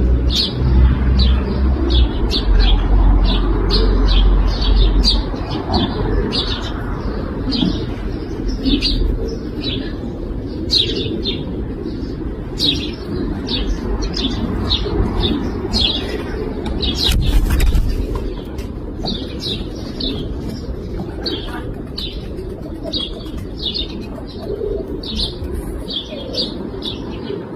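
Domestic pigeons cooing, a continuous low murmur, under frequent short high-pitched bird chirps, several a second. A low rumble runs through the first five seconds, and a brief burst of noise comes about 17 seconds in.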